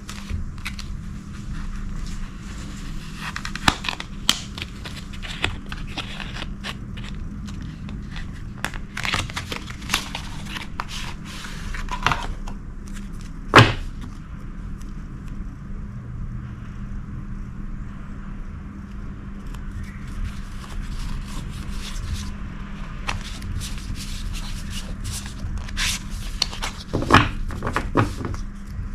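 Packaging and photo cards being handled: irregular crackles, scrapes and small clicks, with one sharper click about halfway through, over a steady low hum.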